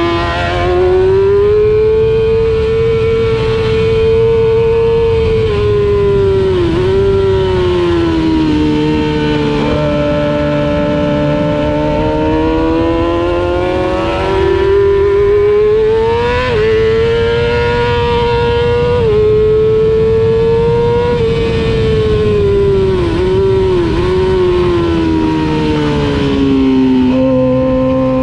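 Racing motorcycle engine heard from onboard at race pace. The engine note climbs and falls continuously, stepping sharply at gear changes, with a few quick dips as the rider shuts off and downshifts for corners.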